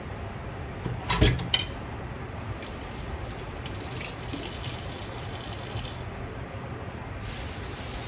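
A couple of sharp knocks about a second in, then a kitchen faucet running into the sink for about four seconds before it is shut off, over a steady low hum.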